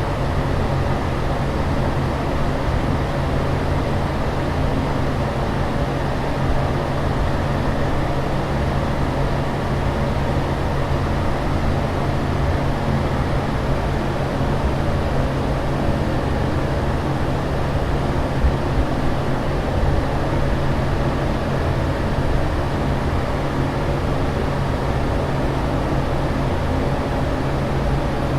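Steady airliner cabin noise in flight: an even, low rushing drone with a constant low hum underneath, unchanging throughout.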